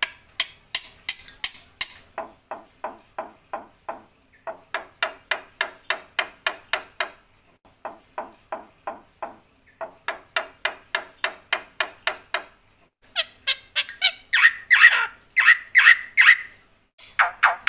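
Black-winged myna (Javan white starling) singing: runs of short, rapid repeated notes, about three or four a second, in phrases broken by brief pauses. The notes grow louder in the last few seconds.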